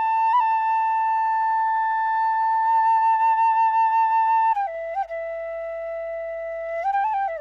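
Vietnamese bamboo flute (sáo trúc) playing a slow solo melody. A long held note wavers with vibrato, then steps down to lower held notes with short grace-note flourishes.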